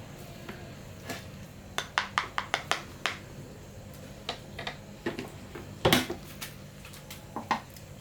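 Dishes and utensils clinking and knocking in short sharp taps: a quick run of taps about two seconds in, a louder knock near the middle, and two more near the end, over a low steady hum.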